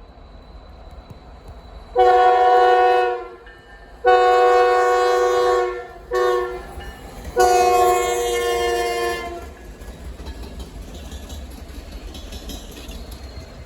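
Locomotive air horn sounding the grade-crossing signal: two long blasts, a short one and a final long one, each a chord of several steady tones. After it, the low, steady rumble of the train.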